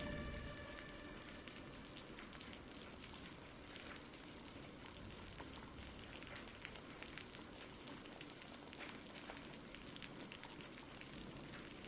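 Faint, steady rain with a scattered patter of individual drops.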